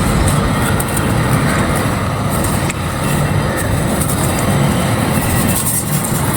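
Dry, dusty clay or sandy dirt being crumbled and crushed, a steady crisp crunching with dense crackles over a low rumble.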